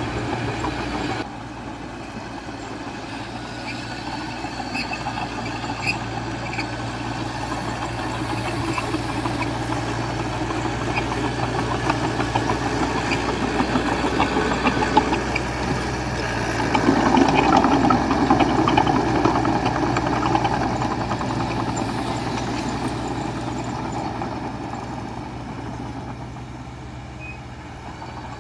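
Diesel engine of heavy earthmoving machinery running steadily with a rattling clatter over it. It drops abruptly in level about a second in, then grows louder and peaks around the middle before easing off near the end.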